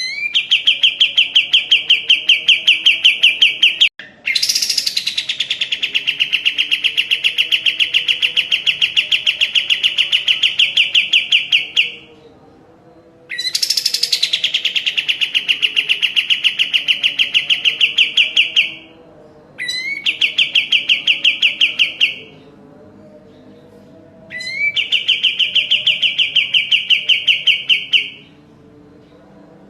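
A kapas tembak songbird singing long rapid trills of evenly repeated notes at a steady pitch, several seconds each, with short pauses between. Some trills start higher and slide down before settling.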